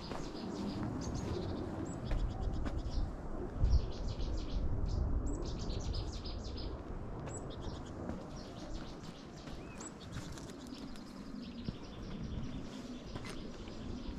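Small birds chirping, in many short repeated trills and calls scattered throughout, over a low rumbling noise.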